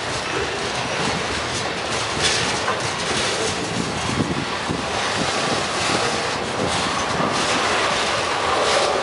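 Freight train passing close by: steel wheels rolling and clattering over the rail joints, a steady rumble with irregular sharp clacks as the cars go by.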